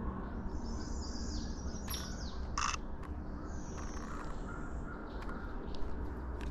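Wild birds singing and calling: two high, thin buzzy song phrases, and a single harsh call in between, over a low rumble.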